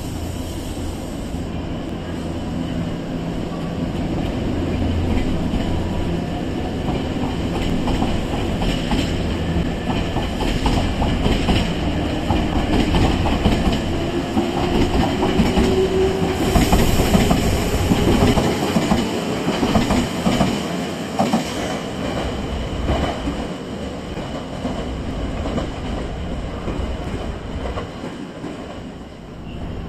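Electric commuter train moving along the station platform, its wheels clacking over rail joints and a motor hum rising in pitch, loudest near the middle before easing off.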